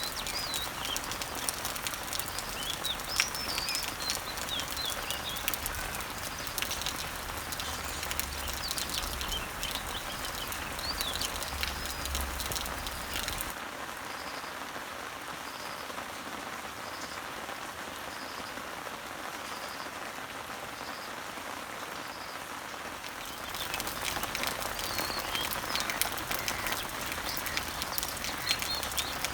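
Rain pattering on garden leaves and trees, with birds chirping over it. For about ten seconds in the middle the rain is softer and a single high note repeats about once a second.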